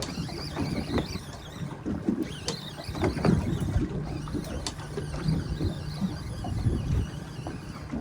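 Wind buffeting the microphone and water sloshing against the hull of an offshore fishing boat, with a low steady hum and a few scattered knocks.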